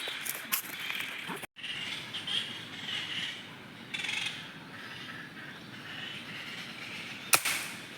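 Jungle ambience of birds and insects chirping, with one sharp crack a little after seven seconds in. The sound cuts out completely for a moment about one and a half seconds in.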